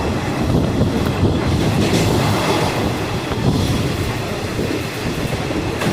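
Passenger train running at speed on the rails: a steady loud rumble with wheels clattering over the track.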